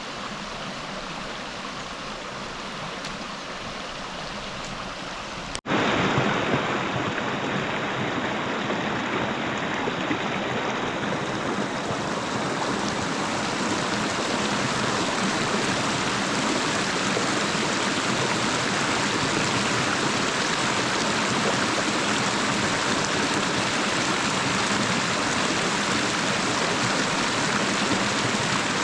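River water rushing steadily. About five and a half seconds in it cuts off abruptly and comes back as a louder, fuller rush.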